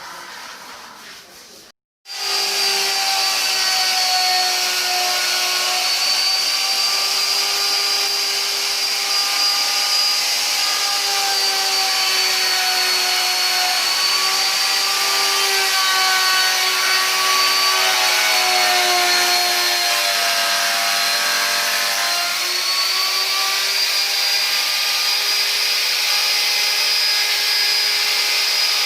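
Electric woodworking power tool running on wood: a steady motor whine whose pitch dips a little now and then as it takes load. It starts about two seconds in, after a moment of silence.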